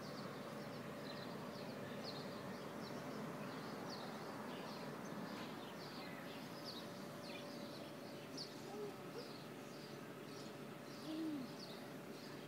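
Backyard birds calling: short, high chirps about twice a second throughout, with a few short, low calls that rise and fall in the second half, the loudest about three-quarters through.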